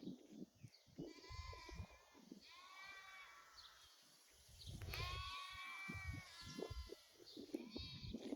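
Sheep bleating faintly in the distance, several separate wavering calls one after another.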